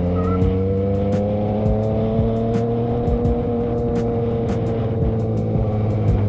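Vehicle engine running on the move, its pitch rising slowly for a few seconds and then easing back.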